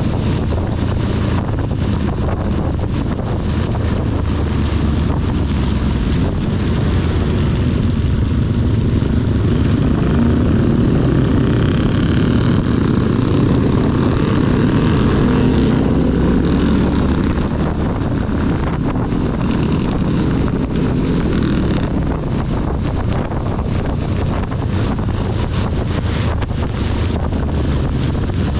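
CB 250 motorcycle engine running under way in heavy rain, with wind and rain noise on the camera microphone. The engine pitch rises and grows louder from about eight seconds in, then drops back after about sixteen seconds. Many small ticks come through in the second half.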